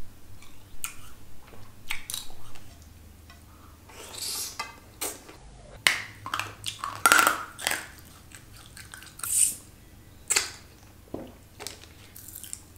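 Close-miked eating sounds: irregular crunchy bites and chewing of sweets and strawberries, in sharp crackles with short gaps between them.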